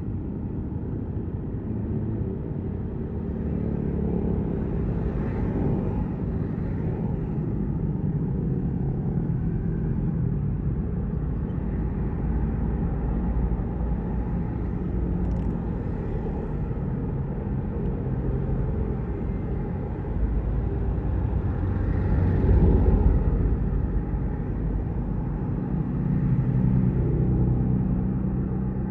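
Yamaha MT15's single-cylinder four-stroke engine running through an SC Project full-system exhaust with its silencer fitted, riding along and rising and falling in revs several times. The loudest rev comes about three-quarters of the way through.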